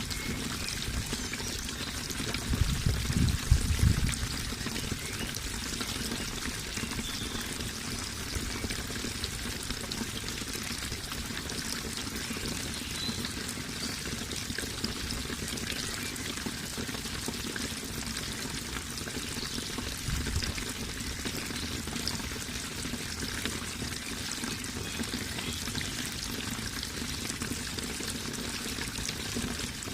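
Running water flowing and splashing steadily, a constant even rush. A brief low rumble comes about three seconds in, with a fainter one about twenty seconds in.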